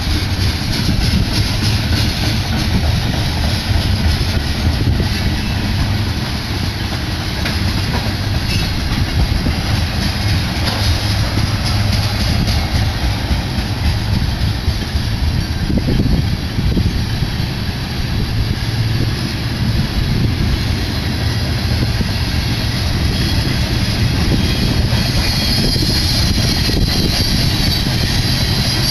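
Tank cars of a slow-moving BNSF manifest freight train rolling past: a steady rumble of steel wheels on the rail. A higher-pitched noise grows near the end.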